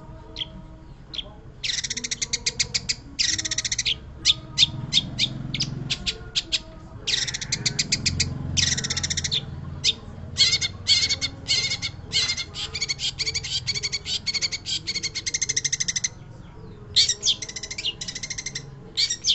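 Long-tailed shrike (pentet) singing a rapid, chattering song of fast repeated high notes in long runs broken by short pauses.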